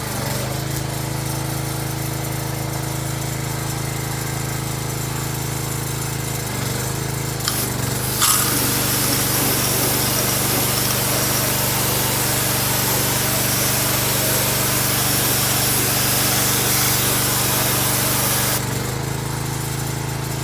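Excavator's engine running steadily. About eight seconds in, a loud steady hiss starts on top of it, lasts roughly ten seconds and cuts off suddenly.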